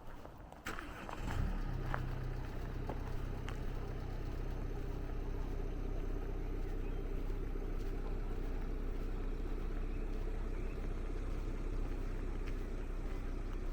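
An engine running steadily at an even, unchanging low pitch, coming in about a second and a half in after a few sharp clicks.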